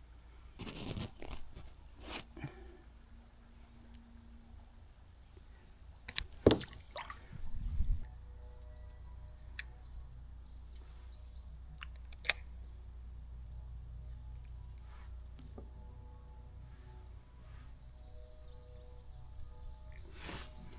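Steady high-pitched drone of insects chorusing, with a few sharp knocks, the loudest about six and a half seconds in and another about twelve seconds in, and a low rumble from about eight seconds on.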